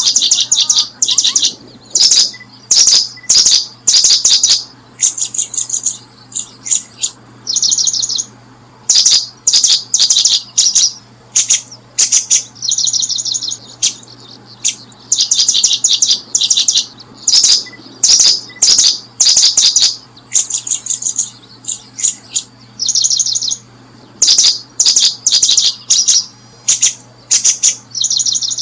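Small birds chirping: loud, high-pitched rapid series of chirps, each about a second long, repeated over and over with short gaps.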